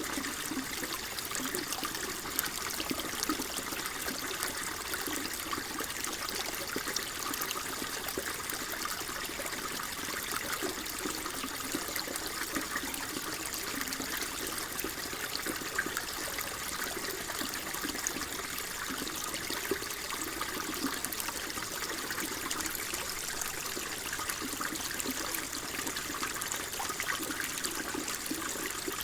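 Flowing water trickling and burbling steadily, a continuous gentle rush with small splashes throughout.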